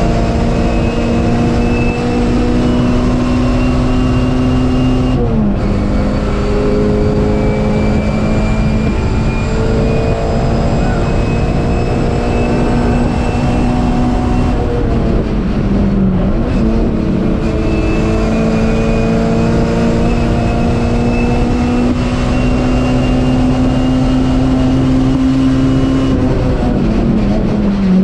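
MG Metro race car's engine, heard from inside the cabin, running hard at high revs with a slowly climbing pitch. The pitch dips briefly three times as the driver lifts off or changes gear.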